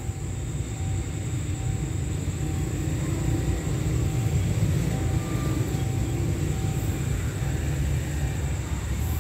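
Low, steady rumble of an approaching express train's diesel locomotive, swelling slightly midway.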